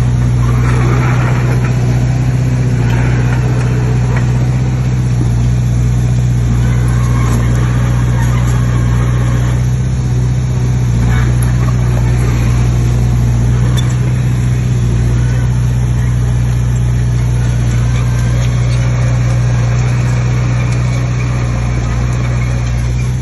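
Heavy diesel engine of earthmoving machinery running steadily at an even pitch, with a strong low drone throughout.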